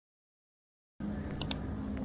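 Silence for about a second, then room sound with a steady low hum, and two sharp clicks in quick succession.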